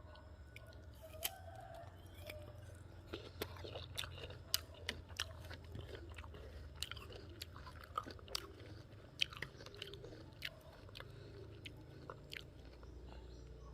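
Crunchy chewing and biting of raw guava heard close up, with many sharp, irregular crunches.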